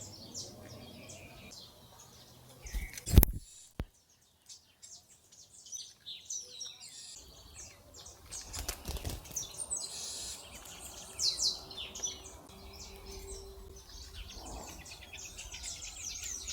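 Small wild songbirds chirping with many short, high calls while feeding, with a sharp loud knock about three seconds in and another near the nine-second mark.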